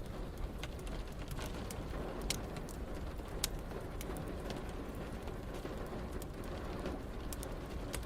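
Wood fire crackling with irregular sharp pops, over a steady hiss of rain and a low rumble.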